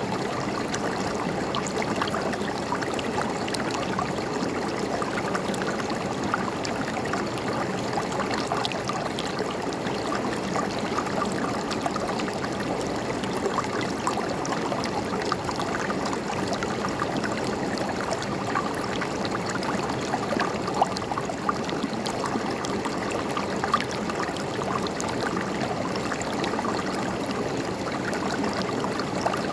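A river flowing steadily, its water gurgling, with small splashes and ticks scattered through the even rush.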